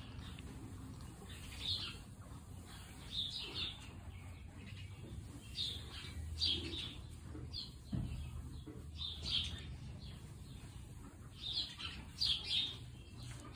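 Small birds chirping off and on, with short high chirps every second or two and a cluster of them near the end.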